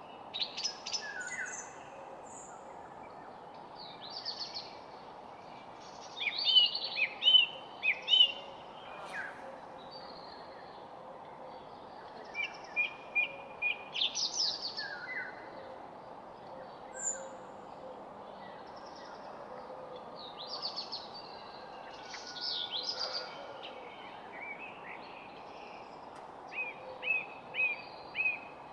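Several songbirds singing and calling: short whistled phrases and quick chirps come and go every few seconds, some in fast runs of notes, over a steady low background hiss.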